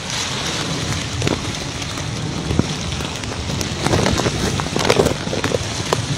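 Rushing floodwater and rain make a steady noisy rush, with many small splashes that come thickest about four seconds in, and some wind on the microphone.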